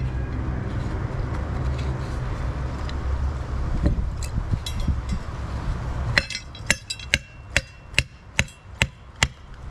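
A steady low rumble, then about six seconds in a run of about eight sharp metallic taps, roughly two a second, each ringing briefly.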